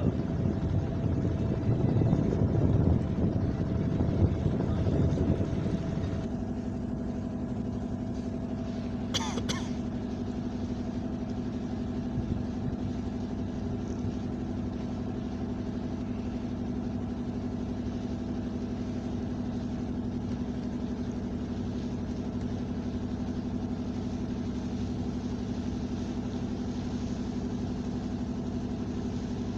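A steady engine hum, like an idling motor, louder and rougher for the first six seconds and then an even drone. A brief high wavering sound comes about nine seconds in.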